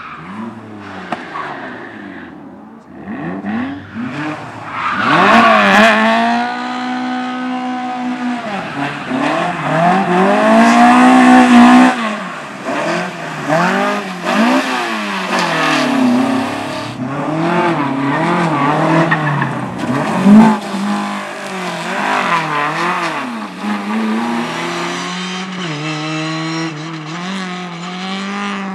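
Race car engine revving hard and easing off again and again as it accelerates and brakes through a slalom course, its pitch rising and falling many times, with tyres squealing in the turns.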